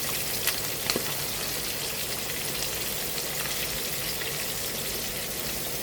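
Chicken pieces frying in hot lard in a cast iron skillet: a steady sizzle with a few sharp pops in the first second or so.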